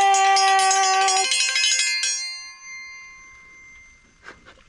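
A loud signal sounded to call people to breakfast: a steady pitched tone held about a second and cut off, with bright bell-like ringing that fades away over the next second or so.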